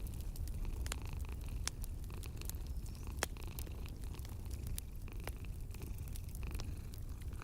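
A cat purring steadily in a low rumble, over the irregular sharp pops and crackles of a wood fire in a fireplace.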